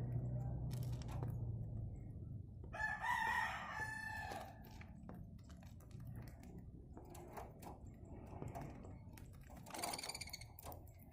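A rooster crows once, about three seconds in, a call of about a second and a half. Scattered small clicks and a second, shorter call near the end.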